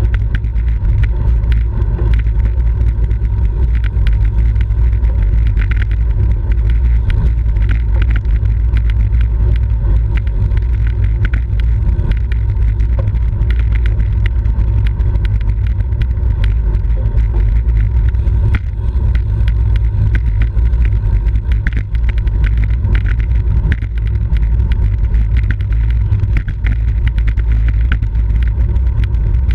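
Steady, loud low rumble of wind buffeting the microphone of a camera on a moving road bicycle, mixed with road noise.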